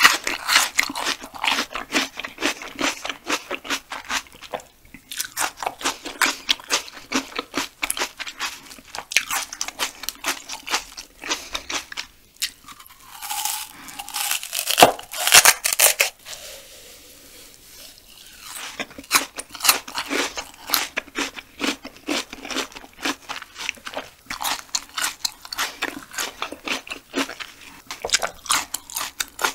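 Close-miked chewing and crunching of raw banana stem pith, in quick crisp crunches several a second. A longer, louder bite comes about 13 seconds in, then a few seconds' pause before the chewing picks up again.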